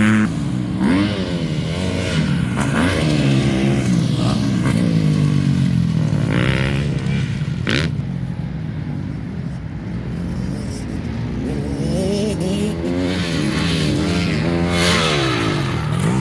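Dirt bikes revving as they ride the track, several engines overlapping, their pitch repeatedly rising and falling with throttle and gear changes.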